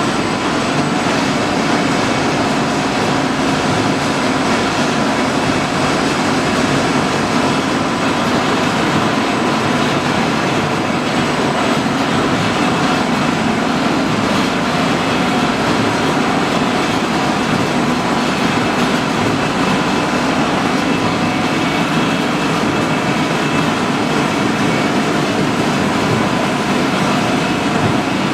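Steady industrial machinery noise: a loud, unbroken din with a few constant tones running through it.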